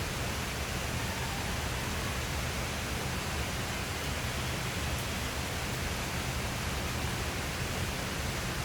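Steady rain falling, an even continuous hiss with no thunder, and a faint single tick about five seconds in.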